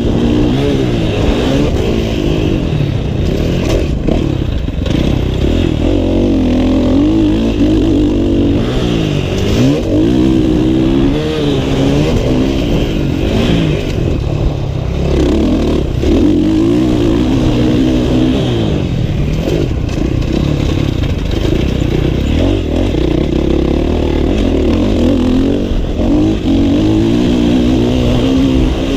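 Motocross dirt bike engine on a lap, revving up and down over and over, its pitch rising with each burst of throttle and dropping off between them.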